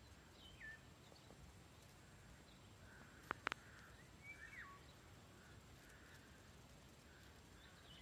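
Faint outdoor birdsong: a few short calls that drop in pitch, with more soft chirping in the second half. Two sharp clicks close together about three and a half seconds in are the loudest sound.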